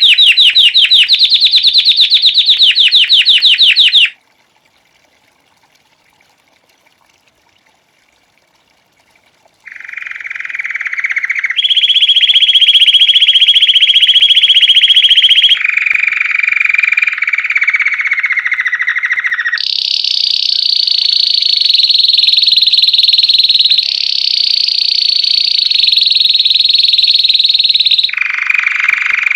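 Domestic canary (white Belgian canary) singing loud, fast trills in phrases that jump from one pitch to another. It breaks off about four seconds in, is silent for about five seconds, then sings on.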